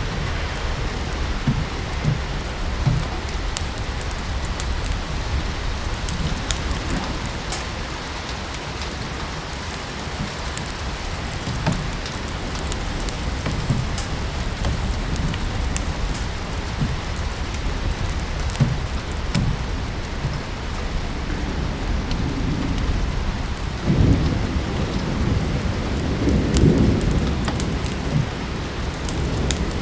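Steady rain with the sharp crackle and pops of a wood fire in a fireplace. A low rumble swells twice near the end.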